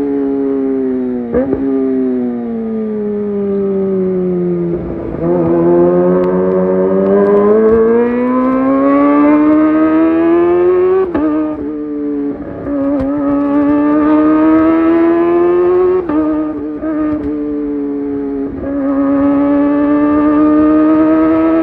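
Kawasaki ZX-25R inline-four engine breathing through a Leovince GP Evo high-mount exhaust, ridden through the gears. The note sinks at first, then climbs steadily under acceleration and drops back sharply at each of several gear changes.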